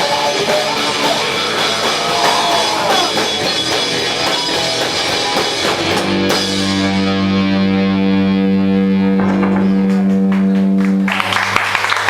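A garage punk band playing live, with distorted electric guitar and drum kit, then about six seconds in the band lands on a final chord that rings out for several seconds while the drums crash. Just before the end the chord stops and applause and cheering start.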